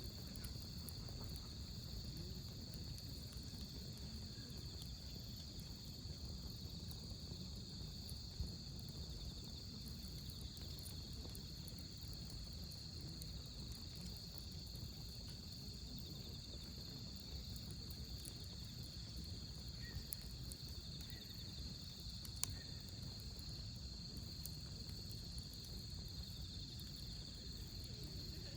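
Crickets chirping steadily over the low hiss of a burning wood fire, with two sharp pops from the firewood, one about a third of the way in and one about three-quarters in.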